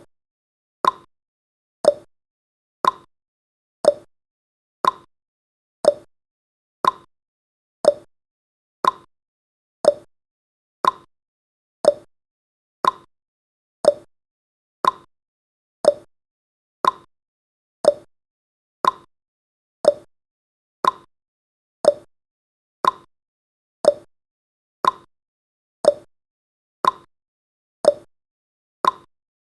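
Countdown timer's ticking sound effect: a short, sharp tick once every second, each dying away quickly.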